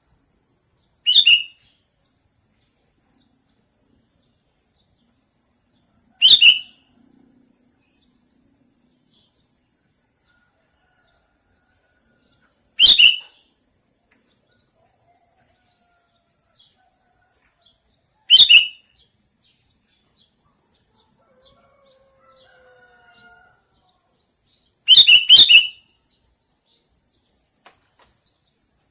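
Sooty-headed bulbul (kutilang) calling: five short, sharp calls spaced about six seconds apart, the last a quick run of several notes.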